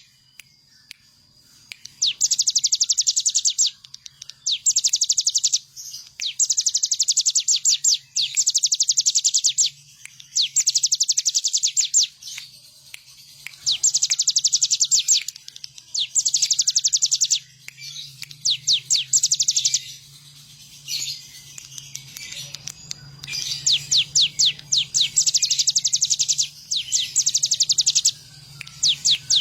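A ciblek gunung, a prinia, singing a run of fast, dry, high trills. Each bout lasts about one to two seconds, with short pauses between them, over a faint steady low hum.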